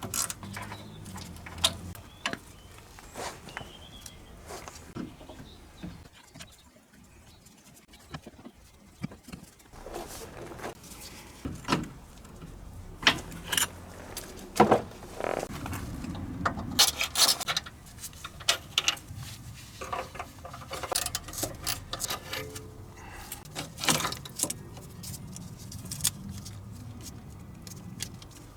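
Hand tools and metal car parts clinking and knocking during dismantling: scattered sharp clicks and clanks, densest and loudest in the second half, over a low steady hum.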